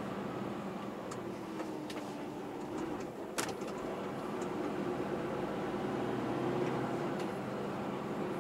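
Truck diesel engine running steadily with a low, even hum, and a sharp click about three and a half seconds in.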